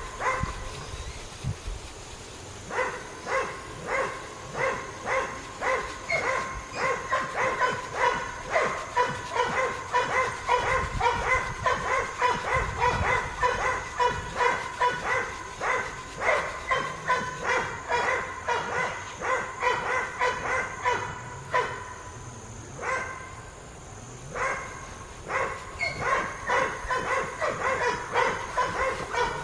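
A dog barking over and over, two or three short barks a second, pausing briefly near the start and again about two-thirds of the way through.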